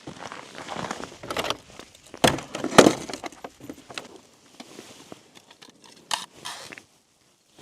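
Irregular crunching and knocking, as of footsteps and gear being handled on snow and ice, with a couple of louder knocks two to three seconds in and another around six seconds.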